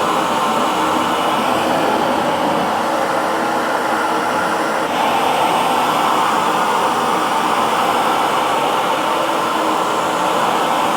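Hair dryer running steadily, an even rush of air with no pauses, becoming slightly louder and brighter about five seconds in.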